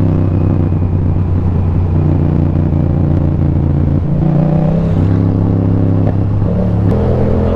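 Motorcycle engine pulling in a low gear through slow, tight turns, its note shifting several times as the throttle opens and closes, and rising near the end.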